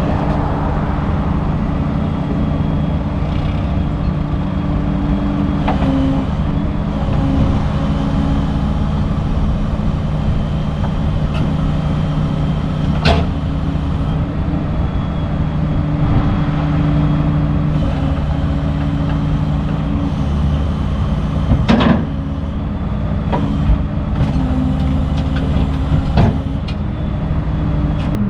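Straight truck's engine running steadily on the road, its pitch shifting a few times, with a few sharp knocks, the loudest about 22 seconds in.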